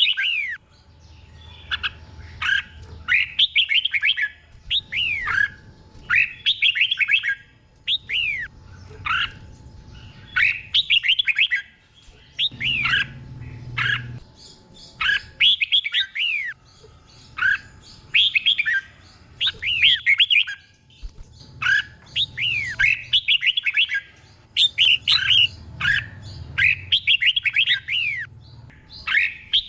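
Red-whiskered bulbul singing. Its short, rapid phrases of quick falling whistled notes repeat every second or two, and the phrases are often doubled in pairs.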